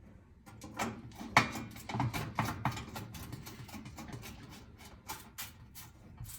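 A run of irregular sharp clicks and taps, several a second, from screws and a hand tool being worked against the range's sheet-metal side panel as it is fastened back on.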